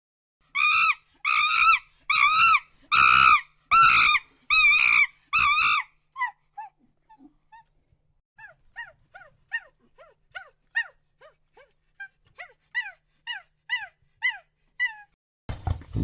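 An animal giving high yelping calls: seven loud yelps about two-thirds of a second apart, then a quicker run of softer, shorter yelps that each drop in pitch.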